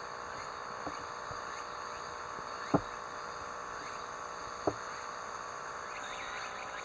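Steady background hiss with three sharp clicks or knocks, about two seconds apart; the middle one is the loudest.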